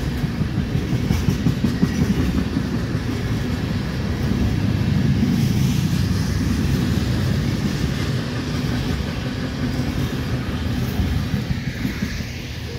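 Freight train tank cars rolling past: a steady low rumble of steel wheels on rail, broken by rapid clicks as the wheels cross rail joints.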